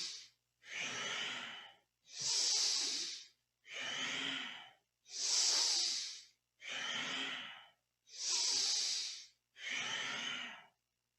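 Deep, forceful breathing through the nose, in even alternating inhales and exhales of a little over a second each, about one full breath every three seconds, paced to the cat-cow spinal flex. The breaths alternate between a brighter, hissier sound and a duller one, with a brief silence between each.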